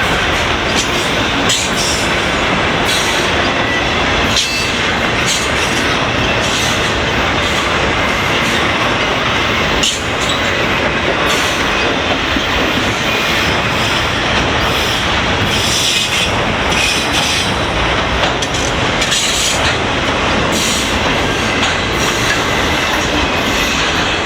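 Freight cars of a long train rolling past, their steel wheels clattering steadily over the rails, with a faint high wheel squeal.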